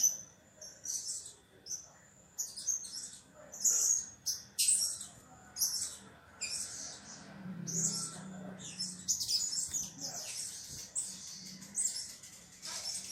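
Kemade bird (cit keres / prenjak keres) calling: a rapid run of short, high-pitched chirps and trills, about two a second, used as a lure call to draw other kemade to answer.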